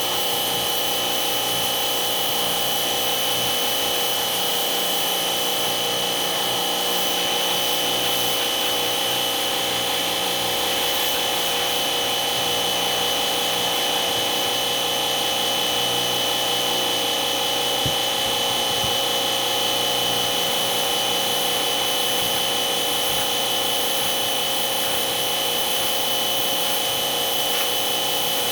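An electric motor running steadily, with a constant high whine and no change in speed.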